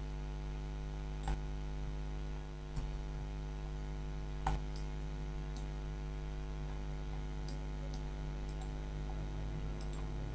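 Steady electrical mains hum picked up by the recording microphone, with a few faint clicks, about three, in the first half.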